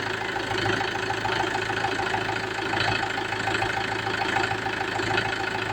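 Mahindra tractor's diesel engine idling steadily, a low hum with a fast, even ticking.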